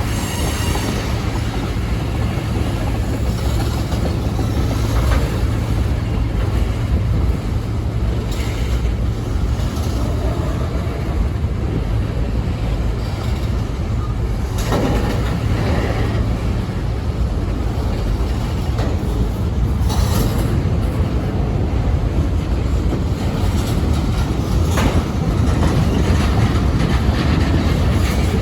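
A train rolling past close by: a steady heavy rumble of wheels on track, with occasional sharp clacks as the wheels cross rail joints.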